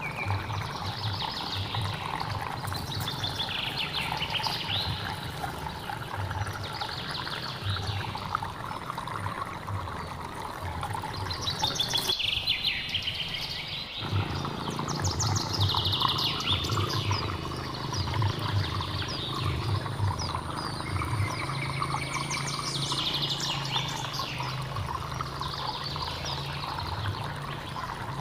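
A hill stream trickling and flowing, with birds calling every few seconds in rapid, falling, trill-like phrases. The water noise drops out for about two seconds midway.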